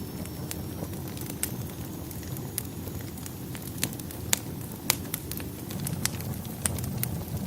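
Wood fire burning in a fireplace: a steady low rumble of flames with sharp, irregular crackles and pops, a couple of louder pops a little past the middle.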